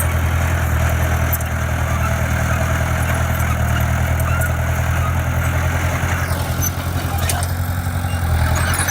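Heavy diesel engine of earthmoving equipment running steadily with a deep, even hum, and a few faint clicks and clanks over it.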